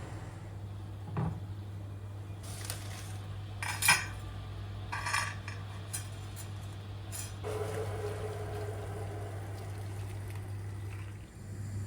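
Kitchen dishes and cutlery handled: several sharp clinks, the loudest about four seconds in, followed by a softer steady sound for a few seconds, over a steady low hum.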